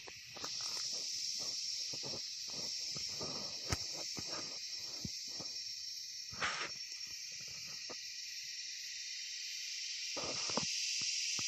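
Steady high-pitched insect chorus, crickets or similar, filling the background. Short low knocks or croaks are scattered underneath it, with a sharp click about four seconds in and a brief louder call or rustle past six seconds.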